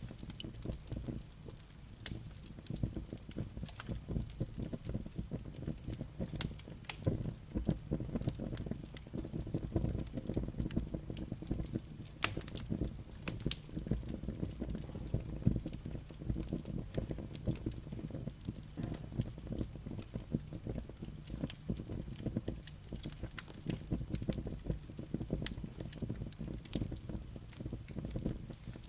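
Wood fire burning in a fireplace: a steady low rumble of flames with frequent irregular crackles and sharp pops from the burning logs and embers.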